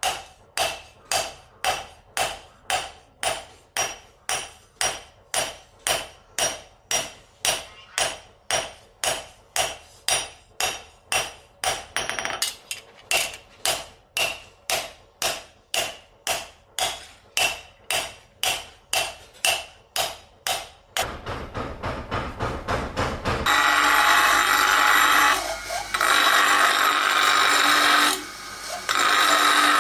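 Hammer blows on steel at an anvil, an even rhythm of about two ringing strikes a second, as a spring-steel knife blade is forged. About two-thirds of the way in the hammering stops, a machine starts with a low hum, and then a loud, harsh, steady grinding noise follows with a couple of short breaks.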